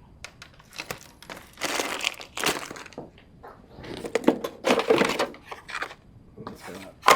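Insulated scrap wire being pulled out of a tangle and handled, rustling and crinkling in irregular bursts.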